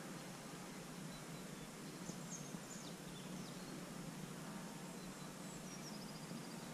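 Faint bird calls over a steady low outdoor background: a few short, high chirps about two to three seconds in, then a short falling trill near the end.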